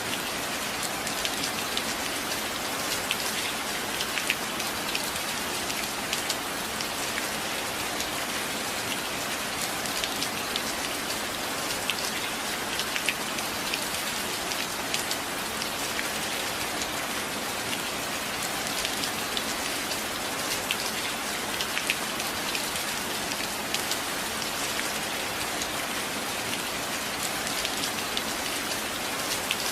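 Steady rain pattering on a surface, with frequent sharp drops standing out.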